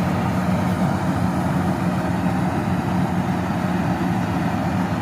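Combine harvester's engine running steadily while cutting wheat, a constant low hum with machinery noise over it.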